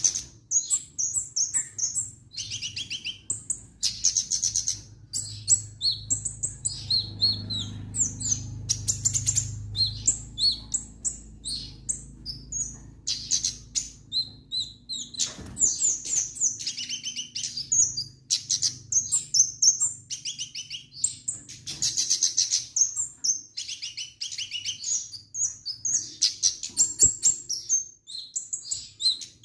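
A kemade songbird singing continuously and in full voice: rapid high chirps and trills in quick phrases separated by short breaks, with a faint low hum under the first half.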